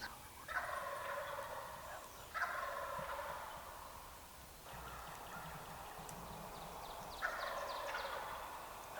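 Wild turkey gobblers gobbling, about four rattling gobbles one after another with little gap between them, the first starting about half a second in.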